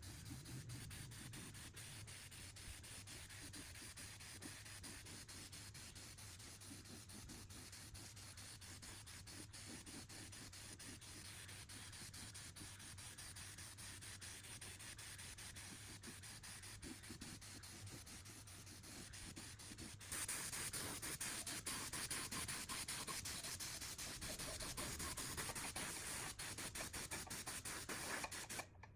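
Rubbing and scraping on metal parts, a dense run of fine strokes. It becomes much louder and brighter about two-thirds of the way through, and breaks off briefly near the end.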